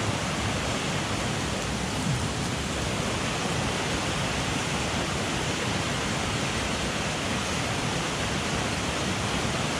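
Headwater mountain stream rushing steadily, an even wash of running water.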